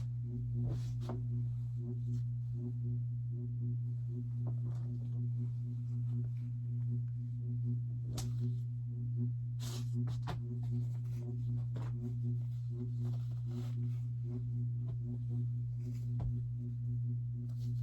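Steady low electrical hum, with a few faint tones above it, and scattered light clicks and rustles.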